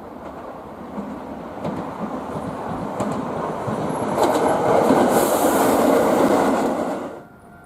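Keisei 3050-series electric train running on the line, growing steadily louder with a few wheel clicks over the rail joints. The sound then cuts off suddenly near the end.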